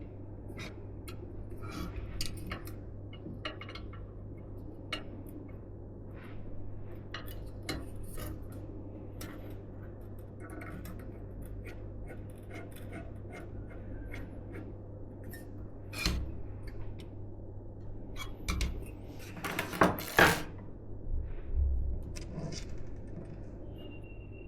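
Small hard clicks, taps and clinks of PC parts being handled and set down, over a steady low hum. A louder burst of clatter comes a few seconds before the end.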